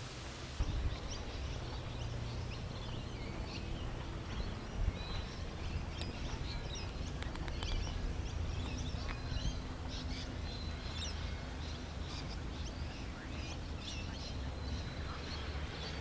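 Birds chirping and calling with many short, high notes, over a steady low rumble.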